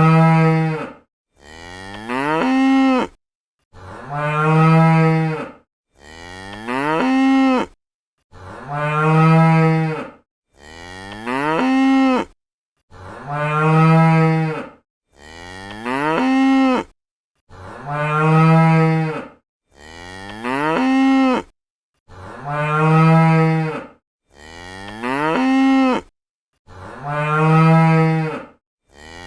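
Cow mooing: a pair of deep, drawn-out moos, the first rising in pitch at its start, repeated identically about every four and a half seconds with dead silence between, like a looped recording.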